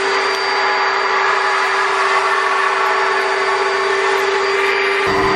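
Car wash vacuum running at full power: a steady hum over a strong rushing hiss, with a lower rumble joining near the end.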